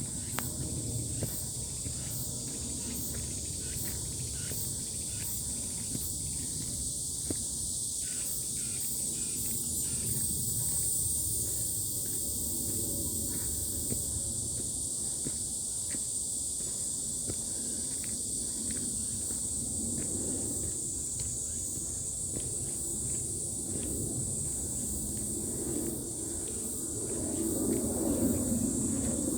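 A steady, high chorus of insects, with a low rumble underneath that grows louder near the end.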